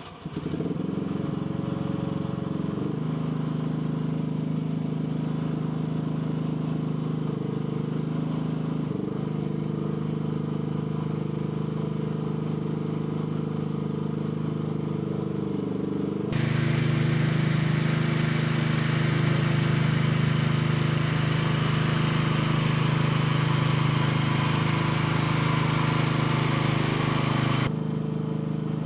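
AGT L12 mini excavator's engine catching and settling into a steady idle, then running faster and louder from a little past halfway until shortly before the end, when it drops back to idle.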